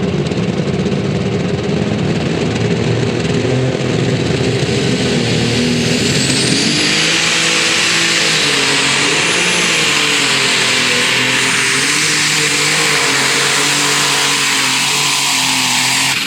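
Super stock pulling tractor's engine running hard under full throttle through a pull, growing louder about six seconds in as a high whine rises, then its pitch wavering up and down under load.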